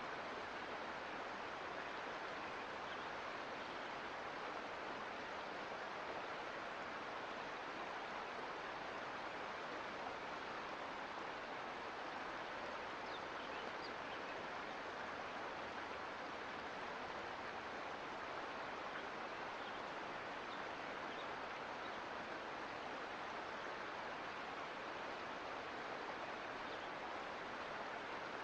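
Mountain creek water running in a steady, even rush.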